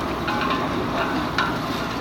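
Chicken gizzards frying and sizzling in a pot while a metal ladle stirs them, clinking and scraping against the pot about every half second, working in the freshly added spices and salt.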